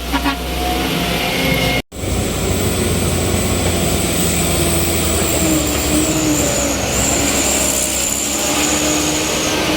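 Vehicle engines running in road traffic, with a steady high whine over the engine noise. The sound cuts out abruptly for a moment about two seconds in.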